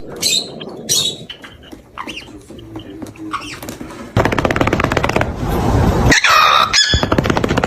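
Parrot calling with short, high chirps and whistles. About four seconds in, a loud, rapid rattling noise starts, with a high squawk over it near the end.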